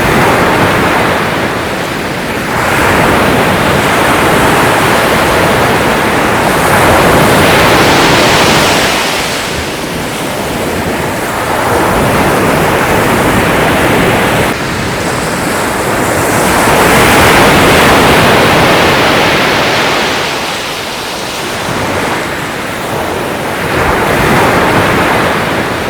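Ocean waves breaking and washing on a shore, the surf swelling and easing in long surges every several seconds.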